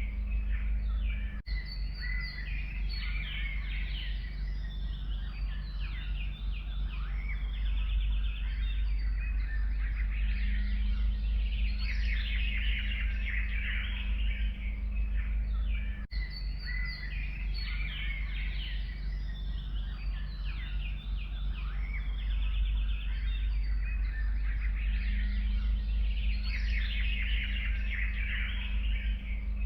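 Several songbirds singing and chirping in a dense, overlapping chorus over a steady low rumble. A short dip about a second and a half in and again about halfway through marks a loop point: the same stretch of birdsong repeats roughly every fifteen seconds.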